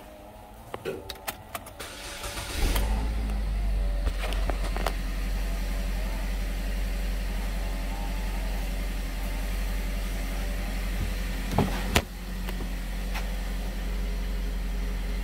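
A 2013 Buick Verano's four-cylinder engine starts about two and a half seconds in and then idles steadily, heard from inside the cabin. A few light clicks come before the start, and two sharp clicks sound near the end.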